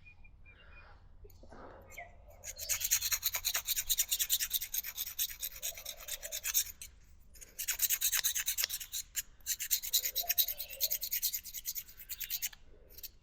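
Rapid scrubbing and scraping strokes on the fuel petcock of a Kawasaki KD80 dirt bike, working old fuel deposits out of the blocked petcock. There are two long bouts with a short pause between them.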